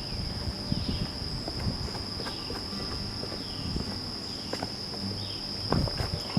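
Footsteps of a walker on an outdoor trail over a steady high insect drone, with a short falling chirp repeating about once a second.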